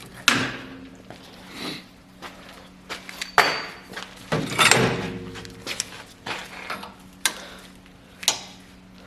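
Irregular metallic clanks and taps of hand tools on steel parts, with two louder clangs that ring briefly about three and a half and four and a half seconds in.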